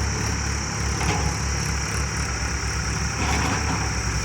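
Heavy diesel vehicle engine running steadily, with a low, even chugging pulse.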